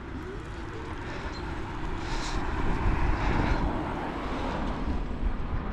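Wind rushing over the microphone and tyre rumble from a Bird electric bike being ridden along at speed, growing gradually louder.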